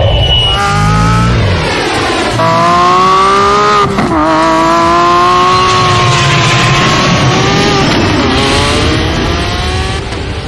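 Lamborghini Aventador SVJ's naturally aspirated V12 engine accelerating hard, its note climbing in pitch through the gears with sharp drops at the shifts, twice, before it fades near the end.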